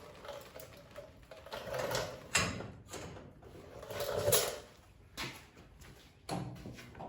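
Irregular knocks, clunks and scrapes of tools and parts being handled at a workbench, with a louder scraping stretch about four seconds in.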